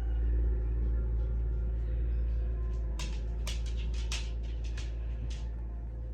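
Tractor engine running with a steady low rumble. A run of sharp crunches or clicks comes about halfway through.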